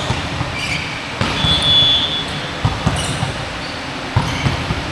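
Basketball game in a gym: the ball bouncing on the court floor in irregular knocks, with a short high squeak about a second and a half in.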